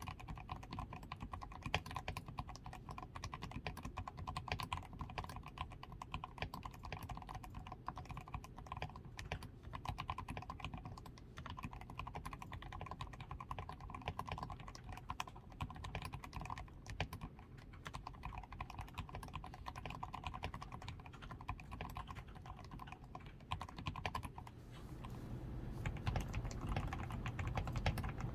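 Continuous typing on a DAREU A87 Pro mechanical keyboard whose switches are fully lubricated with Krytox 105, with a tape-modded PCB, lubed stabilizers and XDA-profile keycaps: a dense, irregular run of keystrokes that gets louder and fuller near the end.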